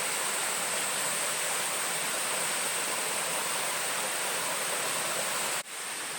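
Steady rushing noise like running water, with a steady high-pitched whine over it. About five and a half seconds in, it drops out for an instant and comes back a little quieter.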